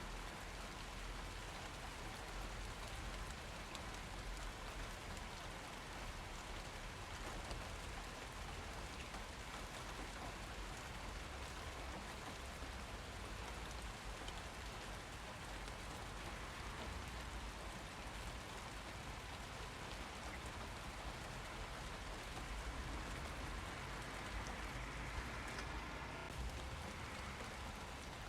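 Steady rain falling on surfaces, a continuous even patter.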